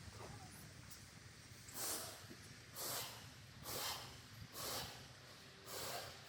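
Five short hissing bursts, about a second apart.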